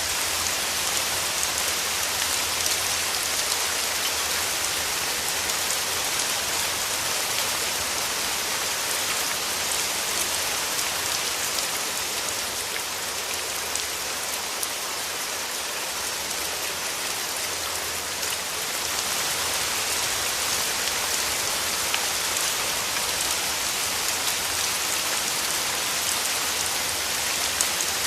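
Steady rain falling, a dense hiss of drops pattering on surfaces, easing slightly for a few seconds midway.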